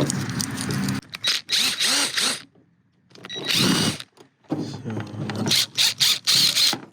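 Cordless power drill/driver run in three short bursts, its motor whine bending up and down in pitch, with clicks between the runs.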